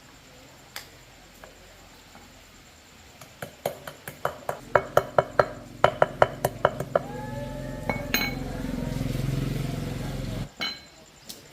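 Rapid metal-on-metal clinks, about three a second, for several seconds. A motor-driven tool starts running under them, carries on alone, then cuts off suddenly near the end.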